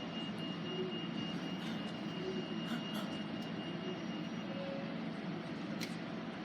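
Steady low rumble of vehicle engines, with a faint thin high tone that stops about two-thirds of the way through.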